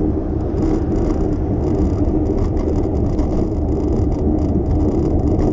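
Bicycle rolling along a city street: a steady low rumble of tyres and wind, with light, rapid mechanical ticking from the bike throughout.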